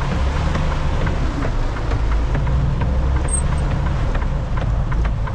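Semi truck's diesel engine idling, heard from inside the cab, with a steady hiss of rain over it.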